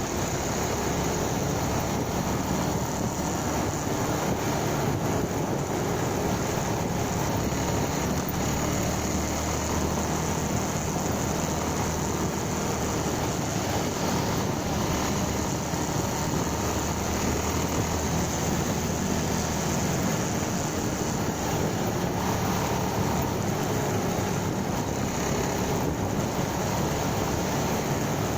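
Motorcycle running at a steady pace while being ridden, an even, unchanging engine and road noise.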